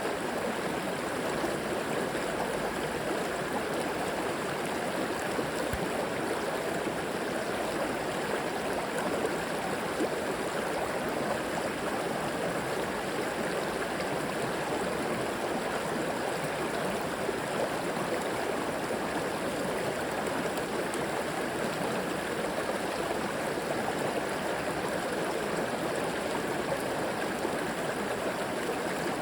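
Flowing river water rushing and gurgling steadily over rocks.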